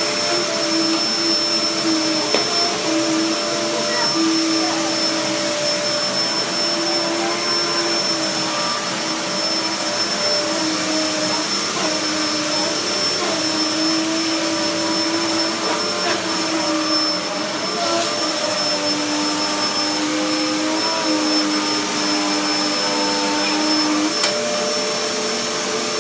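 Hoover Dust Manager upright vacuum cleaner running steadily after its refurbishment. Its motor hum wavers slightly in pitch over a constant high whine and a steady rush of air.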